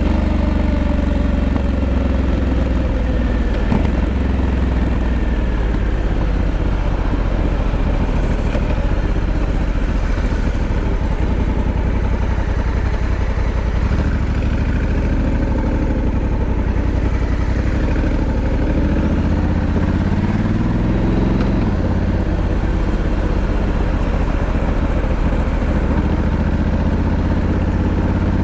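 Honda Africa Twin 1100's parallel-twin engine running steadily, its revs rising and falling several times in the second half.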